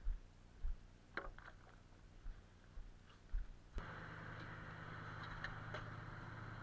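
Low thumps and a few clicks, then, about four seconds in, an engine suddenly running steadily at an even, unchanging speed.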